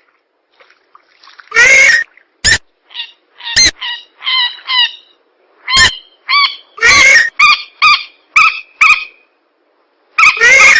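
Bird-lure recording of swamp birds, rails (mandar), calling: loud, harsh honking calls in irregular bursts, with a few short sharp clicks and quicker runs of calls in the middle, then a pause before a last loud call near the end.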